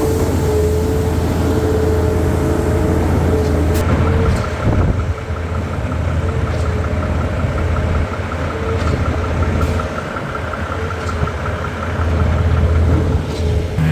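Heavy truck engine running steadily at a concrete job site. From about four seconds in until near the end, a fast, even ticking runs over the engine noise.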